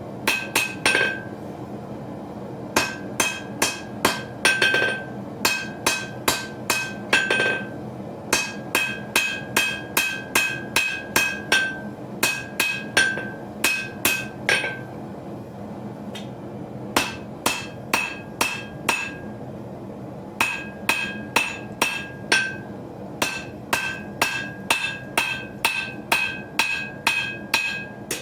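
Hand hammer striking hot steel on an anvil, forging a small skinner knife blade: about two ringing blows a second, in runs with short pauses, the longest pause about halfway through.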